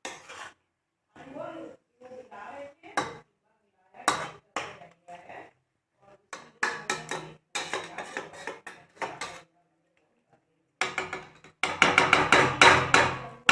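Ladle stirring the chicken curry after the spice paste goes in, scraping and clinking against the cooking pot in short irregular strokes that come faster and louder near the end.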